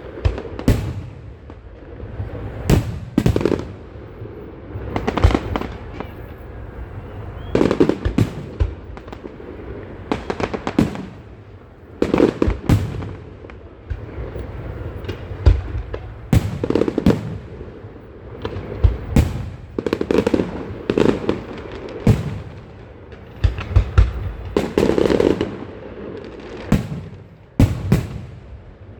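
Aerial fireworks going off in quick, irregular succession: clusters of sharp bangs every second or two, each trailing off in an echo.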